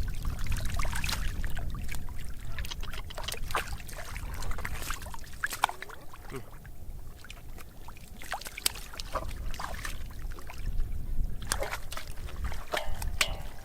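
Water sloshing and splashing, with many irregular short splashes and knocks over a low rumble.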